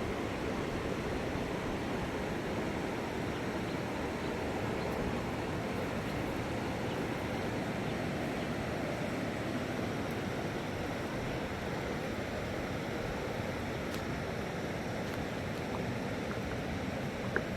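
Rushing water of a flooded river, a steady unbroken wash of noise.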